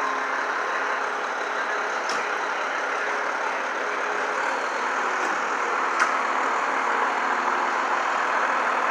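Heavy truck engine idling steadily, with two brief sharp clicks, one about two seconds in and one about six seconds in.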